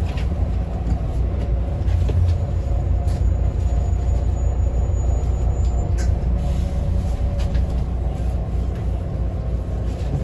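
Steady low rumble of a bus running, heard from inside the cabin, with a few light rattles and clicks.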